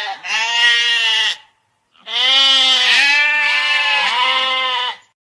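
Goat bleating: a bleat in the first second and a half, then a longer run of wavering bleats from about two to five seconds in.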